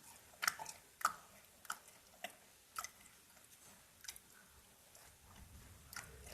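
Close-up mouth sounds of someone chewing crispy fried potatoes: a run of sharp crunchy chews, about every half second at first, then sparser.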